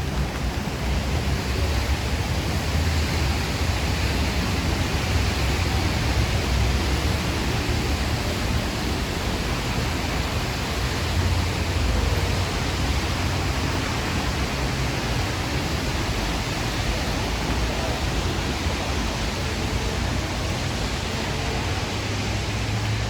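Steady hiss of heavy rain, with a low rumble underneath.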